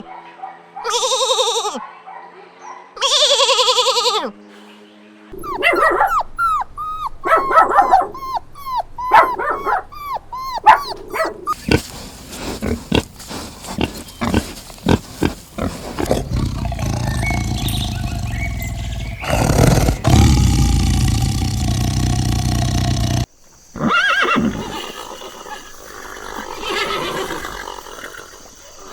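A run of different farm animal calls, one short clip cut after another: two long calls first, then a string of short, quick calls, then a longer low, rough stretch, and after a sudden cut, more calls.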